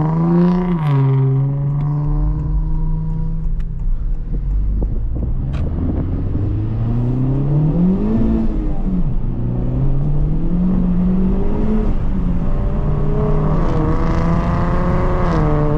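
2025 Honda Civic Type R's turbocharged four-cylinder engine heard from inside the cabin while driving, its pitch climbing under acceleration and dropping back several times as the manual gearbox is shifted.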